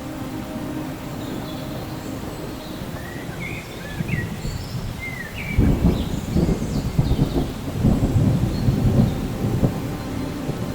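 Rolling thunder over steady rain, the rumble swelling louder about halfway through.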